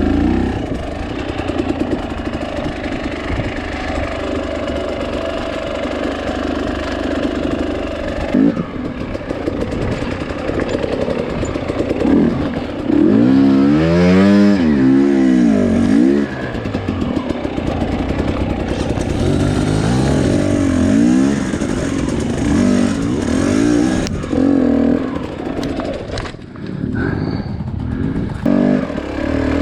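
Two-stroke dirt bike engine working over rocky ledges and a steep climb, the throttle blipped on and off. Midway there is one strong rev that rises and falls, followed by several smaller rev swings.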